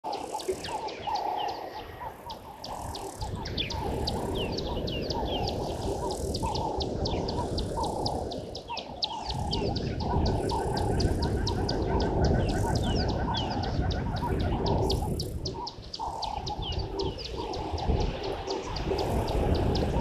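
Birds chirping and calling: a dense run of rapid, short, high chirps repeated many times a second, with lower repeated calls mixed in, over a steady low rumble.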